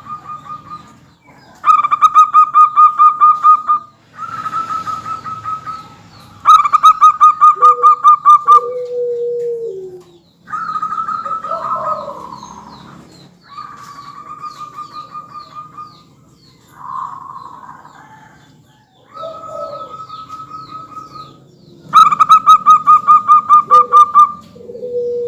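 Zebra doves (perkutut) singing, with several birds answering one another. The calls are repeated fast trilled phrases, each a second or two long, and several end in a lower, falling coo.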